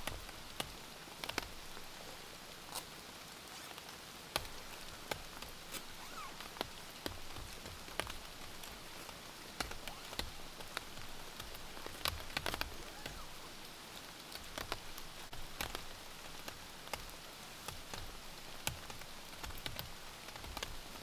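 Rain falling: a steady hiss with irregular sharp taps of single drops striking a nearby surface.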